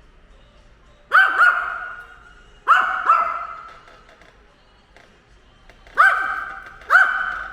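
A dog barking six times, mostly in pairs, each bark trailing off with an echo.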